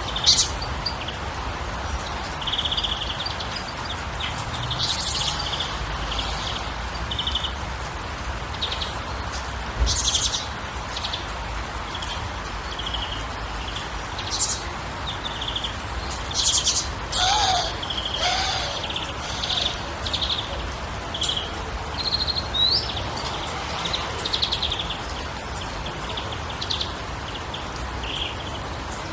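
Birds chirping and calling, many short high calls one after another, over a steady background hiss.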